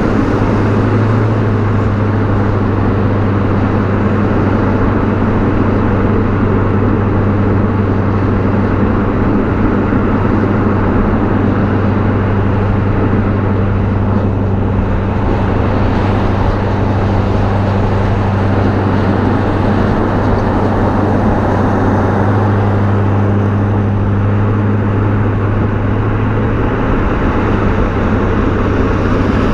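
BMW E39 540i's V8 exhaust running at a steady, even engine speed while the car drives, a constant low note with wind and road noise over it.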